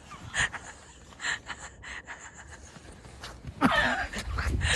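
A person's breathing and gasps, with a short wavering vocal sound near the end.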